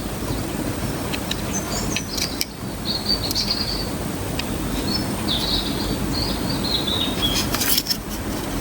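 A small bird chirping in short phrases in the background over a steady low rumble, with a few sharp clicks near the end.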